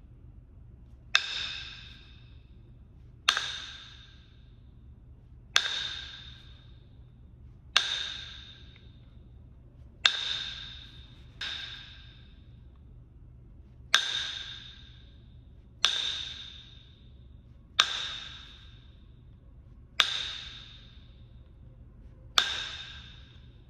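Kentucky hornstone being flintknapped: sharp percussion strikes about every two seconds, each leaving a clear ringing note that fades over about a second.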